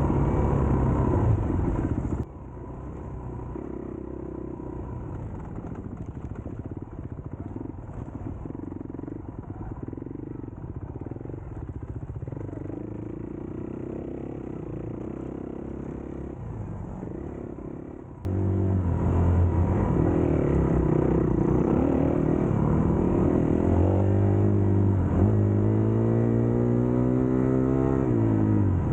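Dirt bike engines running across edited cuts. The sound is loud at first, drops to a quieter engine drone about two seconds in, and turns loud again at about eighteen seconds, where the engine pitch rises and falls repeatedly as the bike revs up and shifts.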